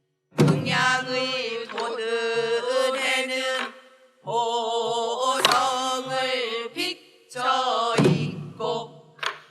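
Pansori singing: a solo voice holding long, wavering notes, with two low thuds from the buk drum about half a second in and again about eight seconds in.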